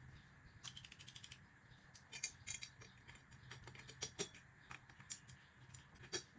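Small metal clicks and taps of exhaust mounting hardware being handled and threaded on by hand, with a quick even run of about ten ticks near the start and scattered sharper clicks after.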